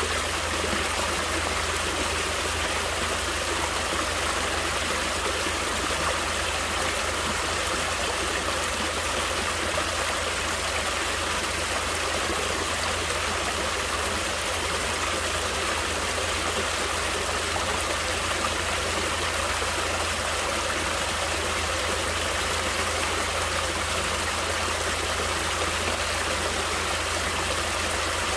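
Natural flowing water running steadily, an even rush of a stream that does not change.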